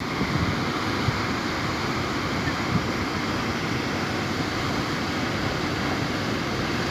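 Waterfall in full flow, overflowing: a steady, unbroken rush of falling water.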